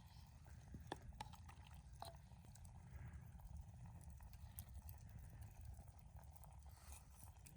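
Near silence: a faint low rumble with a few scattered small clicks.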